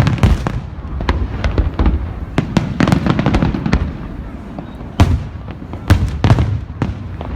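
Aerial fireworks bursting in rapid succession, a dense crackle of reports with heavier booms at the start and about five and six seconds in.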